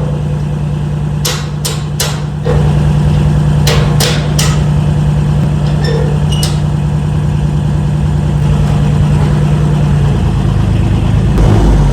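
Electric welder laying a weld bead on the steel loader bucket: a steady hum over a constant crackle, with a few sharp knocks in the first few seconds. The hum stops about ten seconds in.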